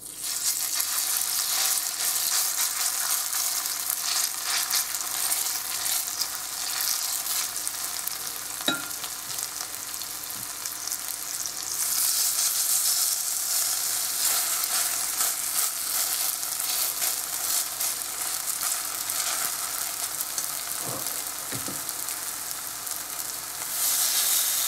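Zucchini-potato fritter batter sizzling in hot oil in a stainless-steel frying pan as spoonfuls are dropped in and flattened. The sizzle swells about twelve seconds in and again near the end as new fritters go in, with one sharp click about nine seconds in.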